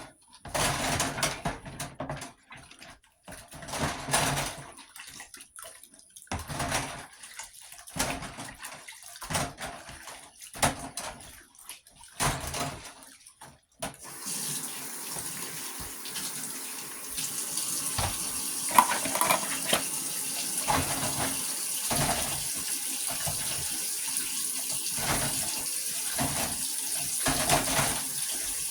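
Scattered knocks and clatter, then about halfway through a kitchen faucet turns on and runs steadily into the sink, with occasional clinks of dishes being washed.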